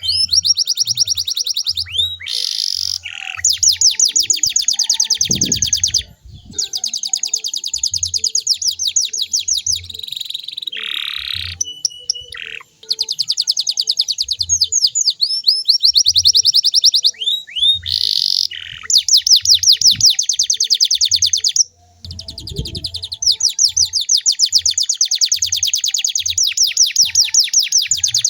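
Canary singing in long, fast trills of rapidly repeated high notes. The runs are broken by brief pauses and a few slower swooping notes.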